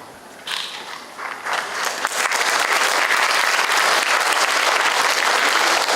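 Audience applauding. The clapping begins about half a second in and swells to a steady, full ovation by about two seconds.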